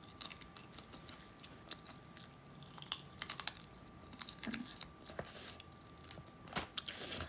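A person chewing food close to the microphone: scattered soft clicks and crunches of the mouth, coming in small clusters.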